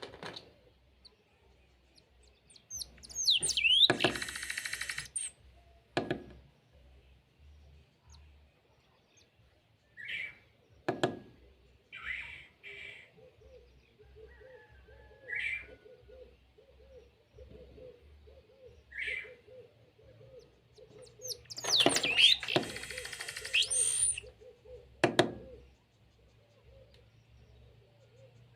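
Birds calling: scattered short chirps, and two loud, longer calls about 18 seconds apart, with a few sharp clicks in between.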